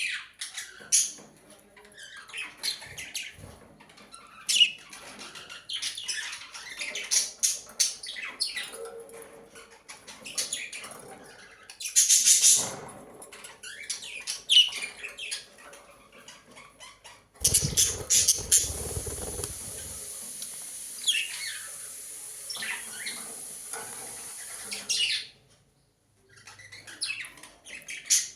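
Budgerigars chirping and chattering in many short, quick calls. From about two-thirds of the way in, a steady rushing noise runs beneath the chirps for several seconds, then stops.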